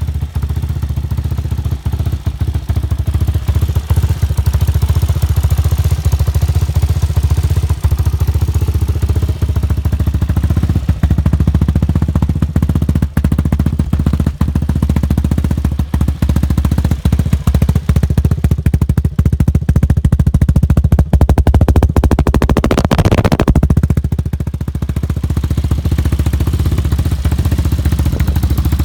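Hawk 250 dual-sport motorcycle's single-cylinder four-stroke engine running steadily after its first start since summer, with a brief rev about three-quarters of the way through.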